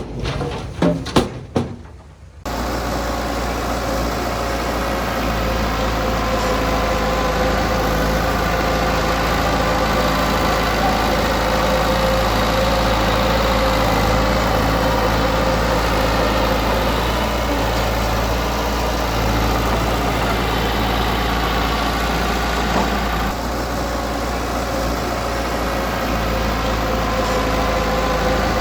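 A few sharp knocks, then a heavy-equipment diesel engine that comes in suddenly about two and a half seconds in and runs steadily.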